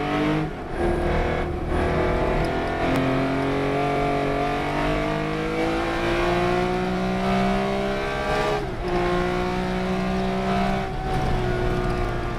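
Race car engine accelerating hard and shifting up through the gears: short gear changes about half a second in, near one and a half and near three seconds, then a long steady climb in pitch broken by another shift near nine seconds.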